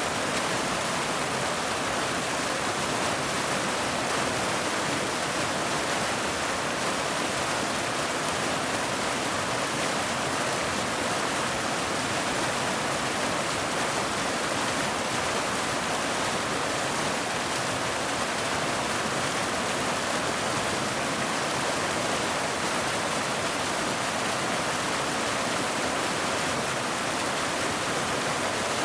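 Steady, heavy rain: a dense, even hiss with no separate drops standing out.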